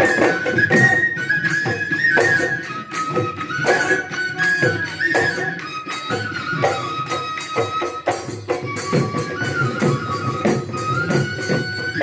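Bihu folk music: a flute-like wind instrument plays a melody in held, stepping notes over quick, dense drum and cymbal beats. It starts abruptly.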